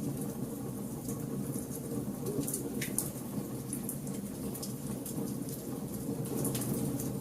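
Bonfire burning: a steady low rumble of flames with scattered sharp crackles and pops of burning wood.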